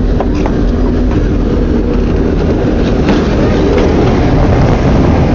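Passenger excursion train running on its track: a steady loud rumble of wheels on rails with a few short clicks.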